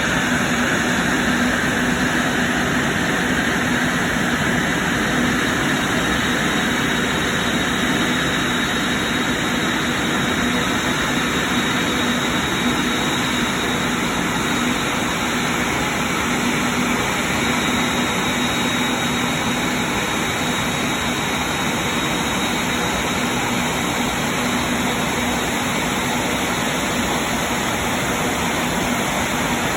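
Airbus A380's four Engine Alliance GP7200 turbofans running at low taxi thrust: a steady jet roar with a faint high whine and a low steady hum.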